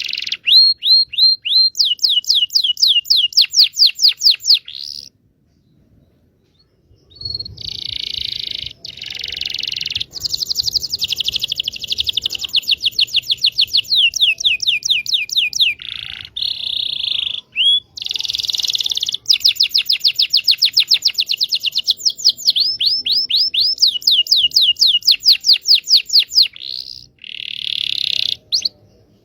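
Local Indonesian canary singing long phrases of fast, evenly repeated high notes, with a pause of about two seconds near the start. This is a lure song, played to get canaries that have stopped singing to sing.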